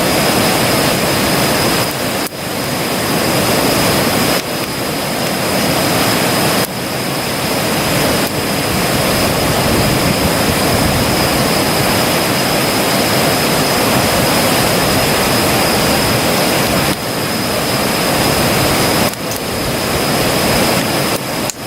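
Wood campfire burning close up, a dense steady crackle and rush of flame, with brief dips in level every few seconds.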